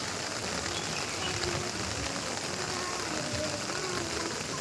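Steady rain falling, an even hiss that holds at one level throughout, with a faint wavering pitched sound above it in the middle.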